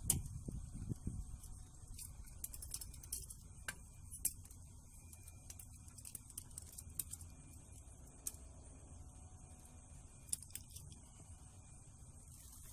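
Scattered light clicks and metallic clinks from furnace parts and tools being handled and fitted back in place, over a low steady rumble.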